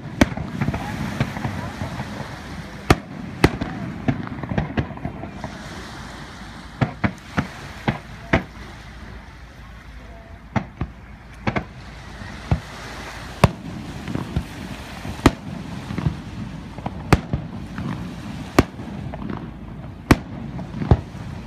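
Aerial firework shells bursting in a display: sharp bangs at irregular spacing, roughly one a second and some in quick pairs, with voices murmuring underneath.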